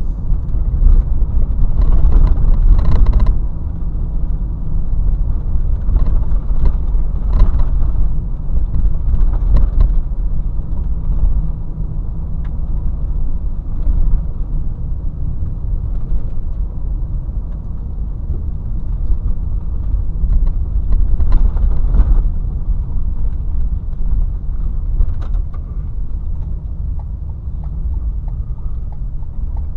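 Steady low rumble of a car driving, road and engine noise heard from inside the cabin, with a few brief louder swells.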